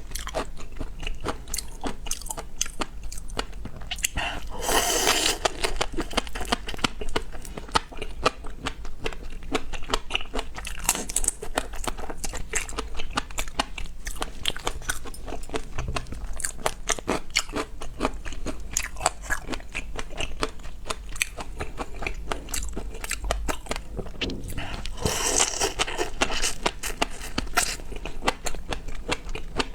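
Close-up eating sounds: continuous biting, crunching and chewing of seafood, made up of many small clicks and crackles, with two longer, louder noisy stretches about five seconds in and near the end.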